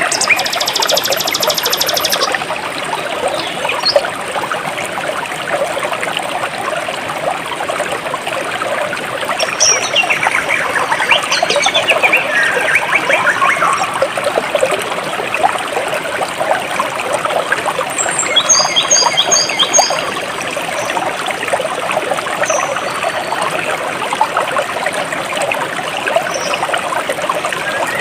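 Stream water trickling and pouring steadily, with birds calling over it: a buzzy trill at the start, a run of falling chirps a third of the way in, and a brief series of quick repeated high notes about two-thirds of the way through.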